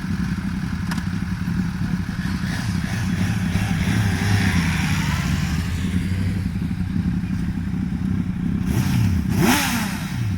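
Sport motorcycle engines idling and revving steadily. About nine seconds in, one bike revs up and rides off past, its pitch rising and then falling.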